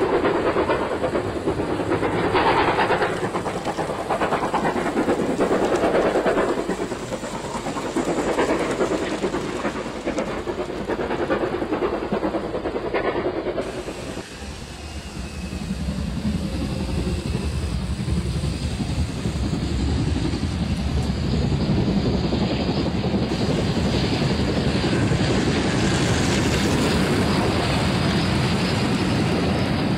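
Train running sounds, with clatter and hiss, coming in slow swells. About halfway through they change suddenly to a steadier, lower rumble that grows louder near the end.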